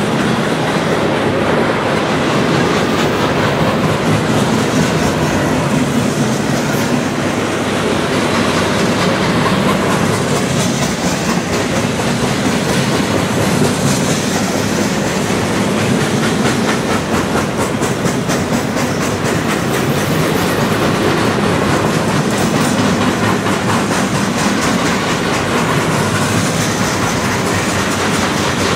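Freight train of centerbeam flatcars loaded with lumber rolling past, a steady rumble of steel wheels on the rails with a fast, continuous run of clicks.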